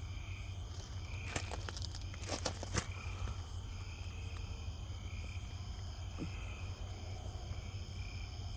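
Night chorus of crickets and other insects trilling steadily, with one pulsing call repeating about once a second. A few sharp clicks come between one and three seconds in, over a steady low hum.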